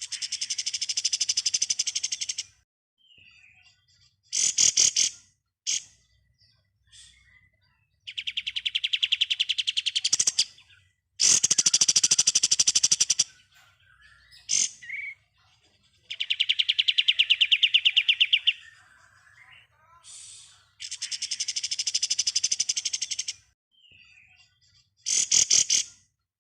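Kapas tembak, a songbird, singing ngebren: long, rapid, rattling trills of about two to three seconds each, five in a row, separated by short chirps.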